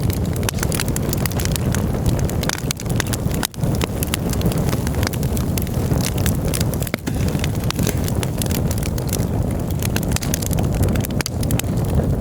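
Campfire crackling, with frequent sharp pops and snaps over a steady low rush. The sound drops out briefly twice.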